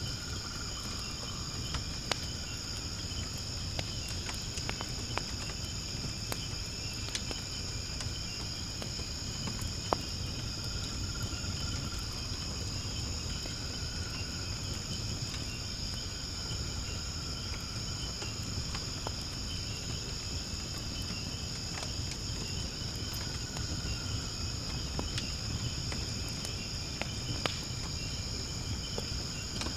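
Firewood burning in a fire pit, giving scattered sharp pops and crackles over a low steady rumble, against a steady high-pitched chorus of insects chirping.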